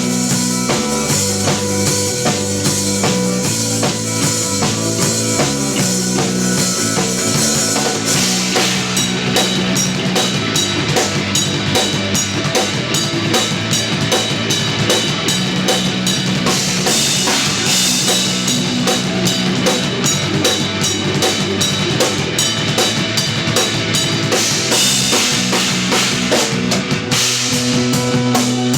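Live instrumental post-rock played by an electric guitar, electric bass and drum kit, with sustained bass and guitar notes; the drumming grows denser and busier about eight seconds in.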